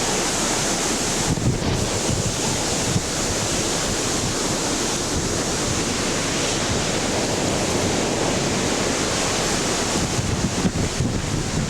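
Storm wind rushing steadily and buffeting the camcorder microphone, with gustier low rumbles near the end.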